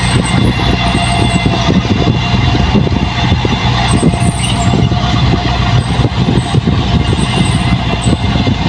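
Diesel engine of heavy farm machinery running steadily under a constant throttle, with a steady low hum and a dense clatter.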